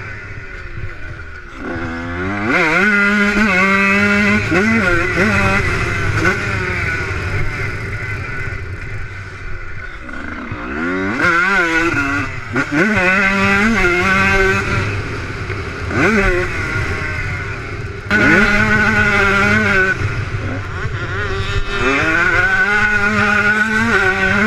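Motocross bike engine revving hard and backing off in turn, its pitch climbing steeply several times, about two seconds in, around eleven seconds, and twice more near the end, with lulls between.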